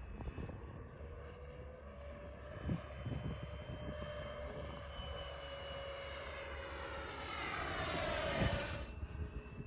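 Electric radio-controlled model airplanes flying, their motors and propellers giving a steady whine. About six seconds in, one passes close, its whine growing louder and dropping in pitch before cutting off sharply near the end.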